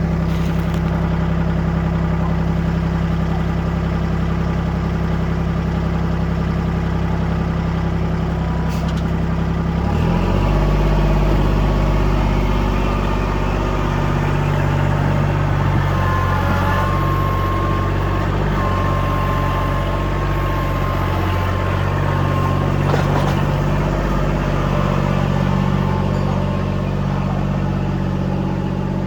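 Kubota L2501 compact tractor's three-cylinder diesel engine running steadily. About ten seconds in its note shifts lower and heavier, and a faint high whine comes and goes in the middle.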